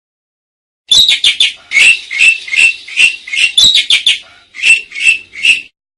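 Asian pied starling (jalak suren) song: a quick run of about a dozen short chattering, clicking notes. It starts about a second in and cuts off abruptly near the end.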